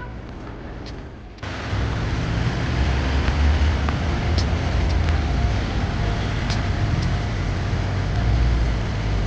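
Road vehicle noise: a steady low rumble with hiss, which gets louder about a second and a half in and then holds, with a few faint clicks.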